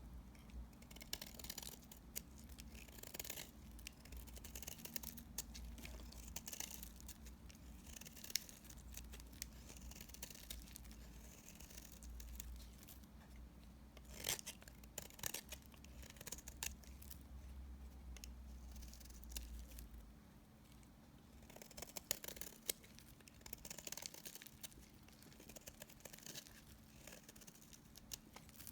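Soap remnants being cut: a series of soft, crisp slicing and crumbling strokes, one every second or two, with one sharper crack about halfway through.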